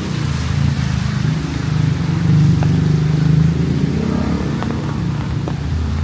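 Motor vehicle engine running at low revs, swelling to its loudest in the middle and easing off again.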